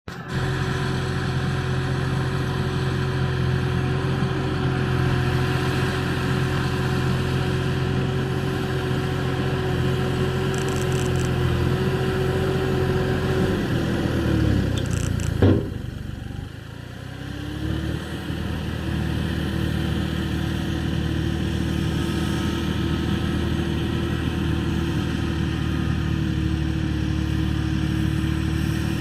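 Tractor engine running at a steady speed. About halfway through it slows with a falling pitch, there is a sharp click and a brief lull, then the engine picks up again and settles back to a steady run.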